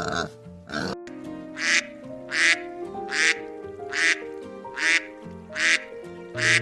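A duck quacking seven times at an even pace, about once every 0.8 seconds, over background music with held notes. Another animal's call ends in the first second, before the quacks begin.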